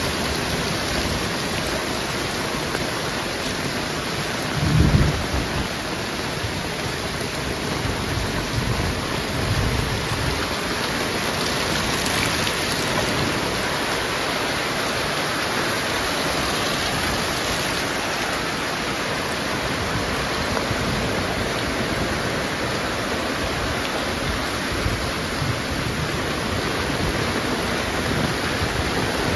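Heavy rain pouring steadily, with one short, deep boom about five seconds in.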